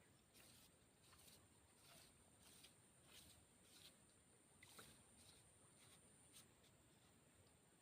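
Near silence: faint background tone with a steady high hiss and a dozen or so faint, scattered clicks.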